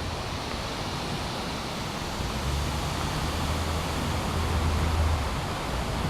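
Steady outdoor rushing noise, with a low rumble from about two to five seconds in.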